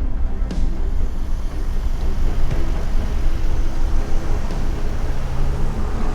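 A car driving, with loud, steady engine and road noise and a heavy low rumble. Held musical tones run underneath.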